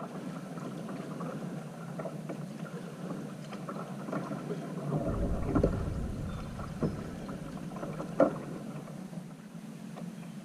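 Water and hull sounds of a sit-on-top plastic fishing kayak drifting on a lake, with a few sharp knocks, the loudest about eight seconds in. A low gust of wind on the microphone comes about five seconds in.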